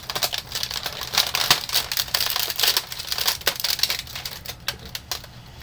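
Plastic food packaging being handled, crinkling and rustling with many small sharp clicks and crackles throughout.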